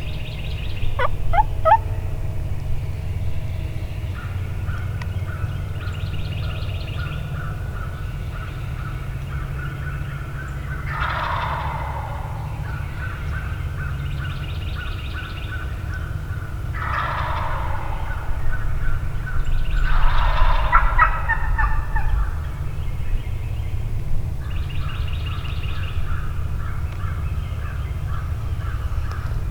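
Wild turkey gobbles ring out three times, loudly, about 11, 17 and 20 seconds in. Each is a rattling call that falls in pitch. Between them runs a steady series of quicker, higher bird calls over a low rumble.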